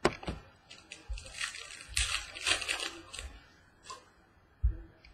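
2014 Elite Extra Edition baseball cards being handled and sorted on a table: irregular rustling and sliding of cards and packaging, with a few light knocks, the loudest near the end.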